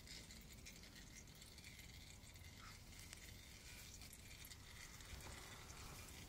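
Near silence: faint steady background hiss with a few light ticks.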